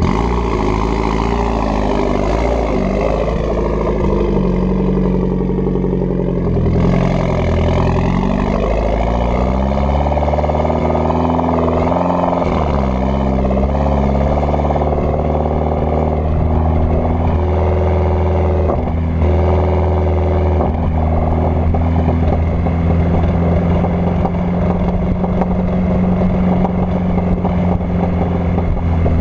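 Mitsubishi Lancer Evolution X's turbocharged 2.0-litre four-cylinder engine running through an AMS downpipe, cat and cat-back exhaust with twin tips. The engine note rises and falls in pitch several times as it is revved or driven.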